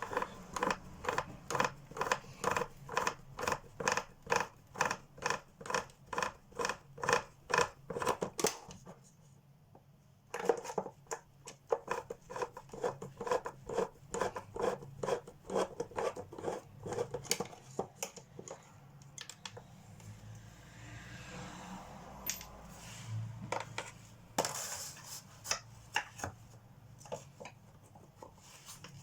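Screwdriver working at a deep-set cross-head screw in a vacuum cleaner's motor housing: a regular clicking about two to three times a second, a pause, then another run of clicks, followed by scattered scrapes and knocks with a louder scrape near the end. The screw's cross-head is worn out.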